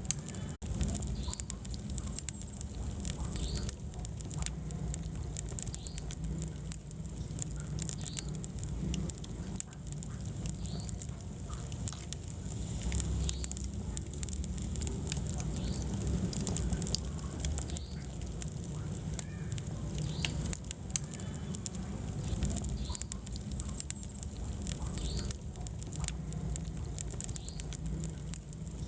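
Wood fire burning in a fireplace: a steady low rumble of flames with constant small crackles and pops from the burning logs.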